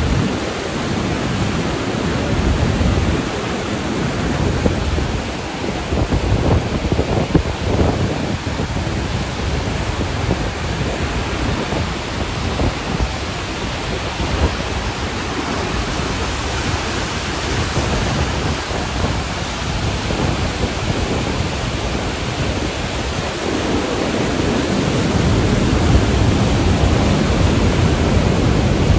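Iguaçu Falls: the loud, steady roar of a huge mass of falling water, a dense rush with a deep rumble that swells slightly near the end.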